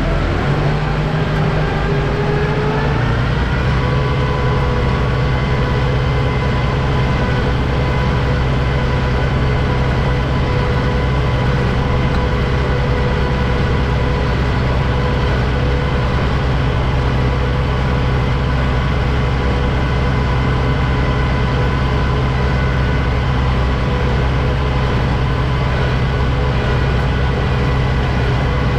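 Kubota M6060 tractor's diesel engine speeding up over the first few seconds, then running steadily at high revs, with a steady whine over it.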